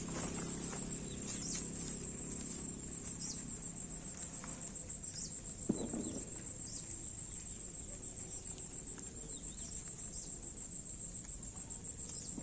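Insects chirring in one steady, high, unbroken tone over a low outdoor background. A few light clicks and rustles come through, with one louder scrape a little past the middle.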